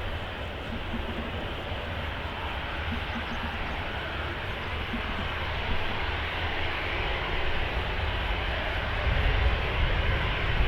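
Jet aircraft engines giving a steady rushing noise over a low rumble, the rumble building louder in the last few seconds.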